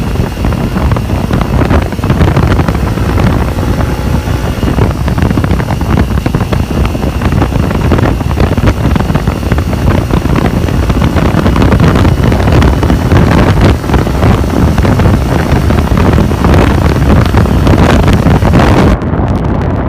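Loud wind buffeting the microphone, a continuous rumbling roar, with a faint steady hum beneath it.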